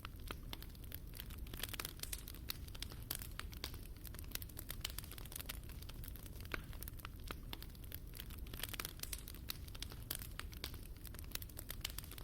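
Wood fire crackling in a fireplace: irregular sharp pops and snaps over a low, steady rush of flame.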